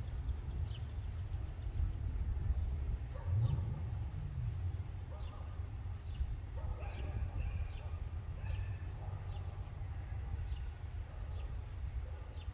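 Bird giving short high chirps that fall in pitch, repeated faster than once a second, over a steady low rumble. A few lower-pitched calls come about three and seven seconds in.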